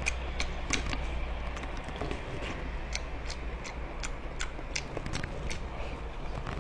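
Close-up eating sounds of a person chewing a large octopus dressed in chili oil: short wet mouth clicks and smacks, about two or three a second, over a steady low hum.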